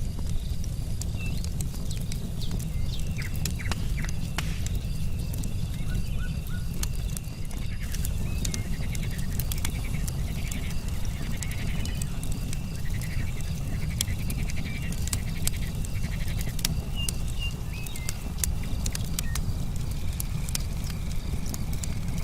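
Campfire crackling, with sharp pops all through, over a low steady rumble. Crickets chirp steadily, and frogs croak in rapid pulsing runs, most densely in the middle.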